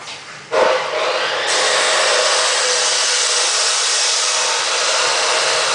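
A machine starts suddenly about half a second in and runs with a loud, steady rushing hiss, which grows brighter about a second later.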